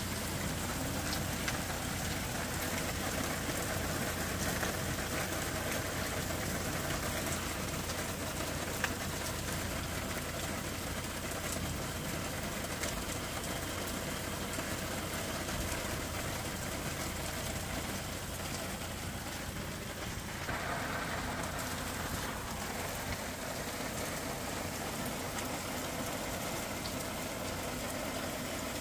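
Onion and spice masala sizzling and crackling in a frying pan as it is stirred, a steady sizzle dotted with small crackles.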